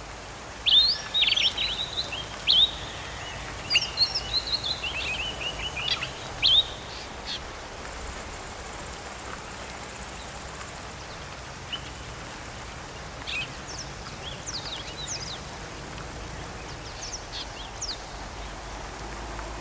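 Several birds chirping and calling, busy for the first six or seven seconds and sparser later. A steady high-pitched buzz runs for about three seconds in the middle.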